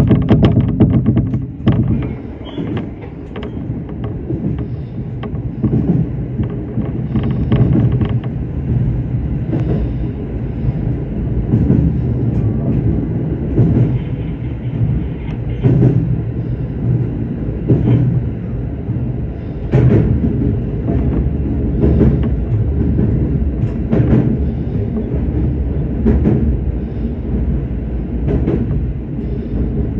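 Shinano Railway SR1 series electric train running between stations, heard from inside the car: a steady rumble of wheels on rail with a clack from the rail joints about every two seconds.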